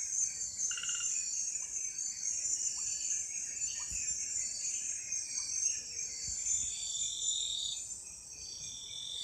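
Night chorus of crickets and other insects, a dense, steady high-pitched trilling, with shorter repeated calls from other night animals beneath it and two longer calls near the end.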